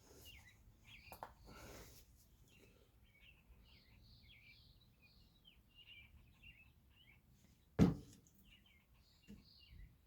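Small birds chirping faintly in a quick, busy series of short calls, with a few soft clicks near the start and one sharp knock about eight seconds in.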